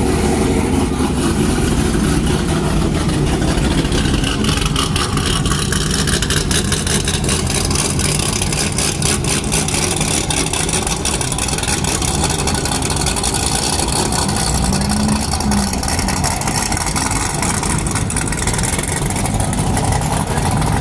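Car engine running steadily, low and rumbling, under a constant rushing hiss.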